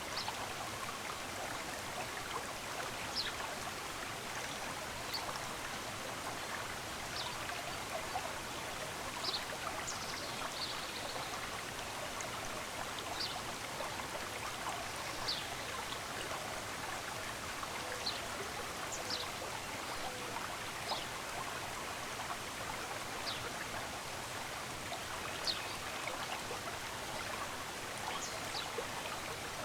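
Running stream water, a steady rushing. Short, high bird chirps come every second or two over it.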